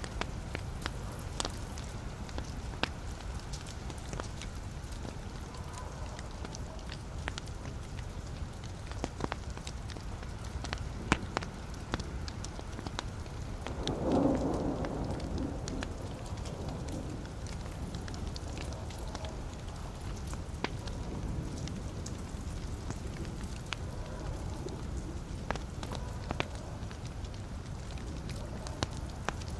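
Wood fire burning in a fireplace, with a steady low rumble of flames and scattered sharp crackles and pops from the logs. About halfway through, a louder rushing flare lasts a second or two.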